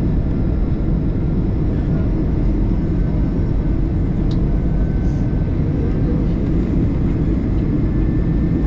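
Steady rumble of an Airbus A320-214's CFM56 engines and airflow heard inside the passenger cabin, with no marked change in level.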